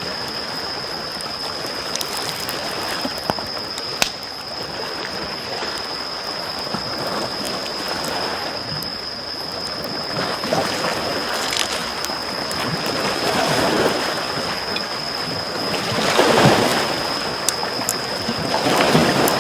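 Small waves lapping on a shore, swelling and falling back every few seconds, the largest about three-quarters of the way in. Over them a wood campfire crackles, with now and then a sharp pop.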